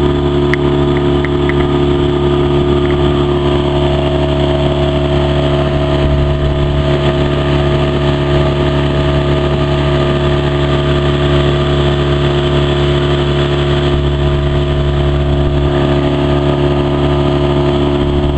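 Hidea 15 hp outboard motor running at a steady speed, pushing the boat along.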